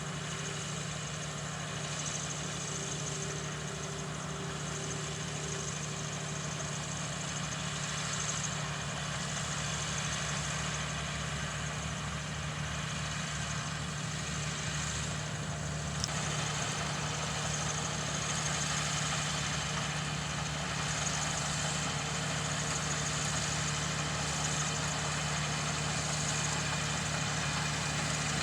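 John Deere 7200R tractor's diesel engine running steadily, a low drone with a single sharp click about halfway through.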